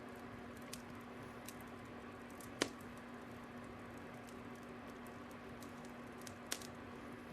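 Wood fire crackling: a soft steady hiss with a low hum beneath it, broken by scattered sharp pops. The loudest pop comes about two and a half seconds in and another near the end.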